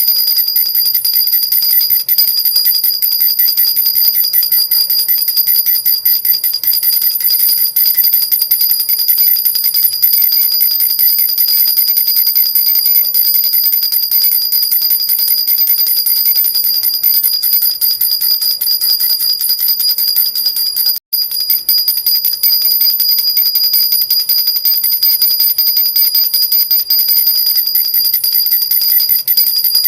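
Jhunjhuna baby rattle with small bells shaken continuously, a fast, steady jingling with high ringing tones, broken only by a split-second gap about two-thirds of the way through.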